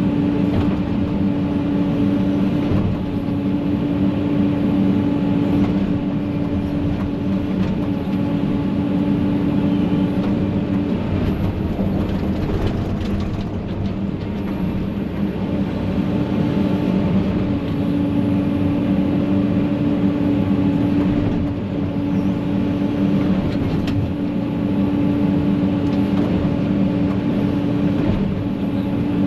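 Diesel engine of a piece of heavy land-clearing equipment running steadily under load while it rakes brush debris. A few times the engine note drops briefly and comes back.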